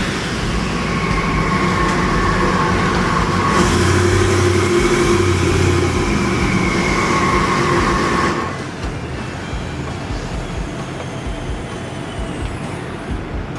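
Twin-turbocharged 427 cubic-inch small-block V8 running on the engine dyno just after a full-power pull, a steady mechanical sound with held whining tones. About eight seconds in it drops to a lower level.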